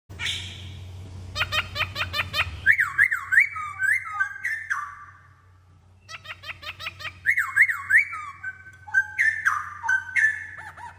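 Black-throated laughingthrush singing loud, clear whistles. A quick run of sharp rising notes gives way to slurred whistles that fall in pitch. The song pauses briefly about halfway and then starts again.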